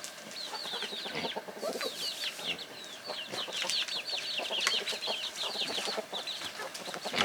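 Chickens: many high, short peeps, falling in pitch, overlap continuously, like a flock of chicks, with a few lower clucks mixed in.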